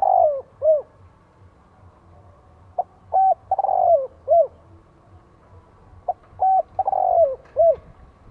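Spotted dove cooing its song, repeated about every three seconds. Each phrase is a short note, two quick coos, a long falling coo and a last short coo. A phrase ends just as the sound begins, and two full phrases follow.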